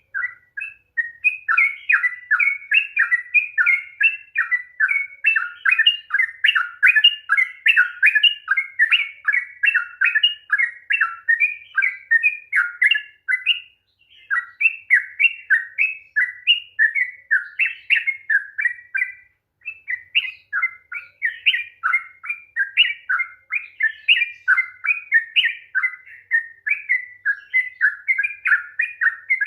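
Yellow-vented bulbul (trucukan) singing a long, fast 'ropel' run of rapid chattering notes, the kind of song played to stir a reluctant caged bulbul into singing. It breaks off briefly about 14 and 19 seconds in.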